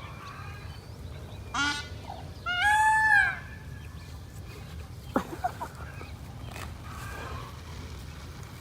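Two loud honking bird calls, a short one followed about a second later by a longer, arching one, then a sharp tap a couple of seconds after.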